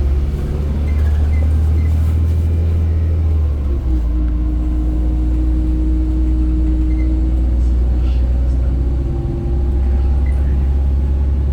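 LiAZ 5292.67 city bus under way, its Weichai compressed-natural-gas engine giving a steady, loud, low drone. The drone dips briefly twice, about 4 and 9 seconds in, and a faint steady whine sits over it after the first dip.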